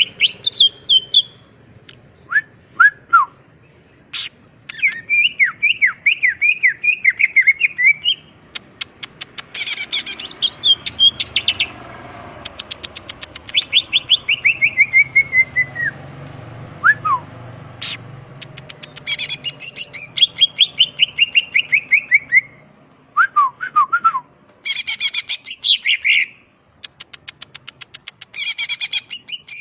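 Green leafbird (cucak ijo) singing: bouts of rapid, chattering sweeping notes and fast trills, each a second or a few seconds long, broken by short pauses.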